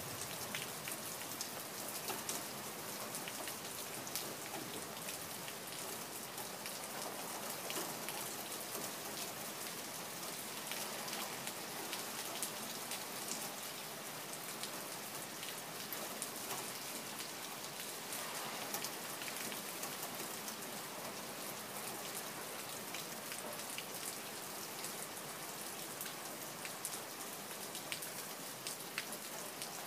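Steady rain falling: an even hiss with many separate drops ticking through it, keeping the same strength throughout.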